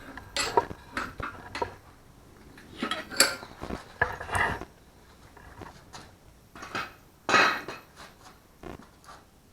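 Steel parts and tools clanking and clinking as they are handled and set down, a string of irregular metal knocks with louder ones about three and seven seconds in.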